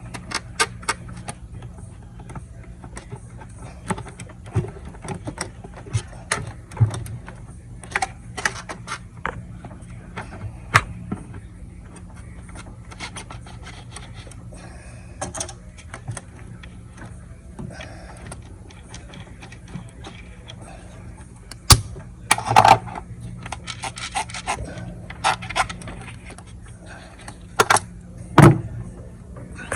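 Hand tools and metal parts clinking, clicking and knocking irregularly while working in a car's engine bay, with a few louder knocks in the last third, over a steady low hum.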